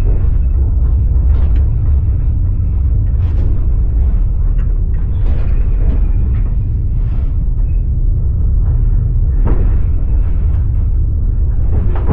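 Passenger train carriage running on the rails: a steady low rumble with a sharp clack of the wheels every second or two.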